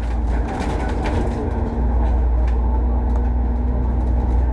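Bus engine and road rumble heard on board, a low steady drone that grows louder about two seconds in as the bus pulls harder, with light rattles over it.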